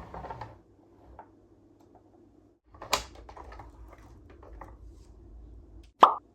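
Close handling of Tomica boxes and die-cast toy cars: soft cardboard rustling and small plastic and metal clicks, with one sharper click about 3 s in. Near the end comes a short, sharp pop.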